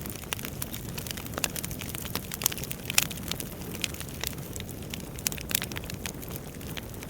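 Wood fire burning in a fireplace, with a steady low rush of flames and irregular sharp crackles and pops from the logs, the loudest pop about three seconds in.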